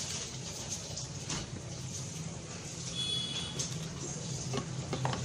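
A few light clicks and taps of small parts being handled over a steady low hum.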